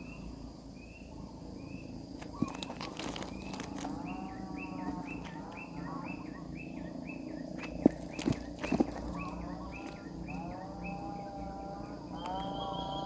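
Nestling birds calling: a steady run of short high chirps, about two to three a second, joined from about four seconds in by lower arching begging calls. A few sharp knocks just past the middle.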